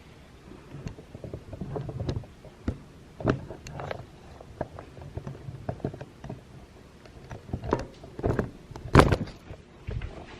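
Scattered knocks and thumps at an uneven pace over a low rumble, the loudest a sharp knock near the end.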